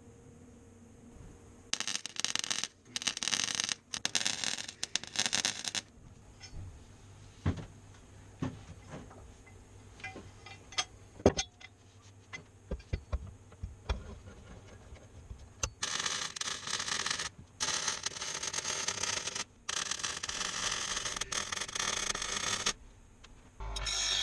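Metalworking on steel exhaust tubing: bursts of harsh, hissing tool noise, each a second or so long, about two to six seconds in and again from about sixteen to twenty-three seconds, with scattered knocks and taps in between.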